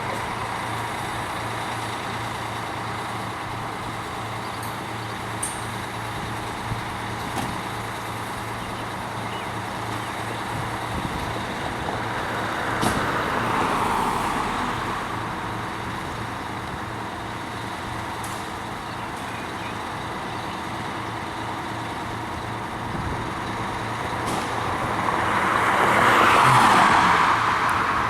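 Road traffic: a steady engine hum underneath, with two vehicles swelling past, one about halfway and a louder one near the end.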